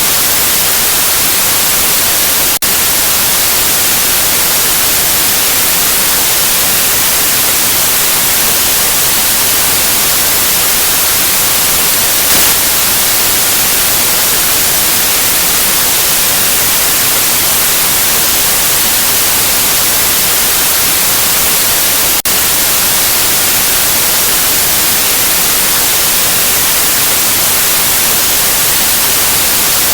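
Loud, steady white noise hiss, brightest in the highs. It dips briefly twice, about two and a half seconds in and again about twenty-two seconds in, and swells for a moment around the middle.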